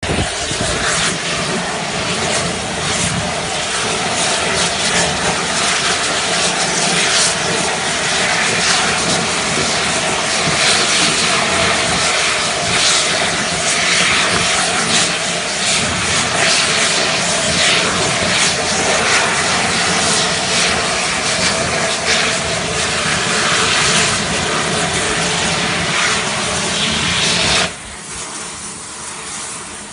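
Oxy-fuel gas torch flame roaring with a steady, crackling hiss; near the end it drops suddenly to a quieter hiss.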